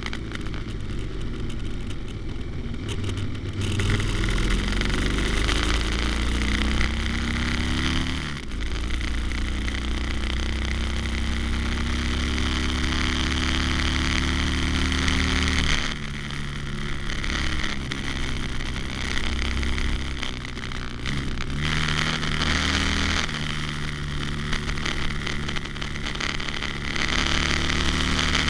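Harley-Davidson Sportster's V-twin engine under way, its note climbing in pitch with two sharp drops early on that sound like gear changes, then settling lower and steadier after about sixteen seconds. Strong wind and road rush are heard throughout.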